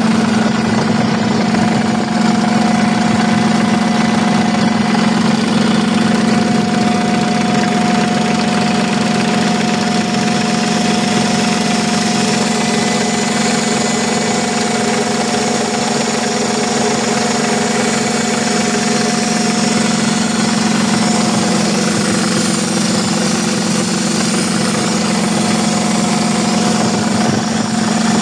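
Engine running steadily at idle with a constant hum and an internal mechanical noise; the fault was traced to a worn camshaft journal.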